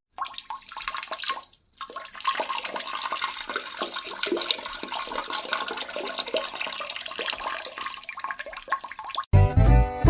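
Water running or splashing, a steady rushing noise with small crackles and a short break a little under two seconds in.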